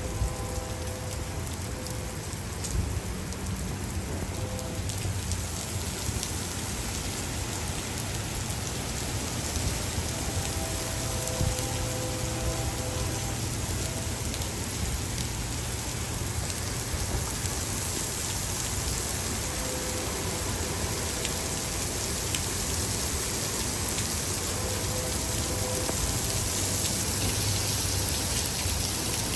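Steady rain falling during a thunderstorm, growing a little heavier near the end.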